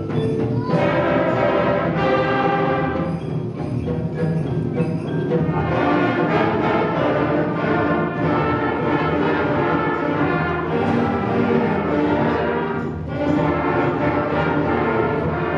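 Middle-school concert band playing, with brass instruments and percussion.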